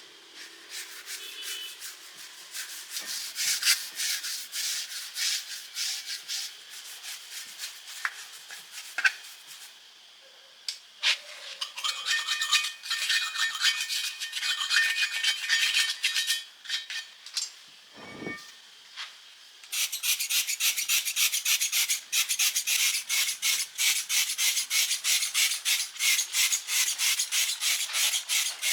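A hand tool scraping metal with quick back-and-forth strokes, typical of rust being rubbed off a truck chassis part by hand. The strokes come in uneven spells at first, with one low knock about two-thirds of the way through, then settle into a steady, even rhythm for the last third.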